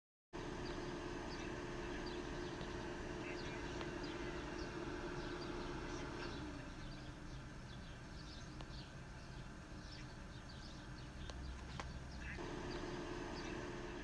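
Outdoor ambience heard through an open window: small birds chirping in many short calls over a low rumble. A steady mechanical hum stops about six seconds in and comes back near the end.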